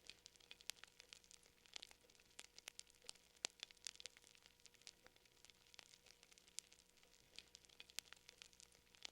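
Faint crackling of a wood fire: irregular small pops and snaps, several a second, over a soft steady hiss.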